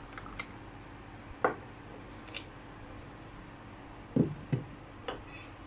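Handling noise from a light stick being opened: about five short clicks and light knocks, with a close pair, the loudest, about four seconds in.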